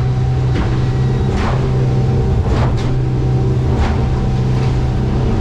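The outboard engine of a Stabicraft 2250 aluminium boat runs steadily at speed, trimmed up. Its hull slaps on the chop about once a second.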